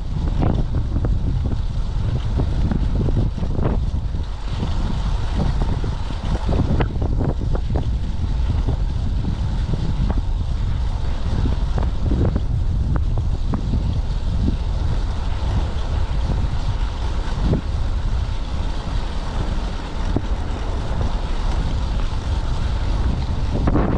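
Strong typhoon wind buffeting the microphone: a loud, steady low rumble with scattered short knocks.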